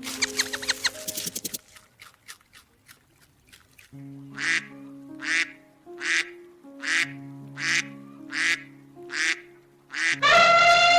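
A duck quacking about eight times in an even series, over background music. Near the end a loud, drawn-out call with a falling pitch begins.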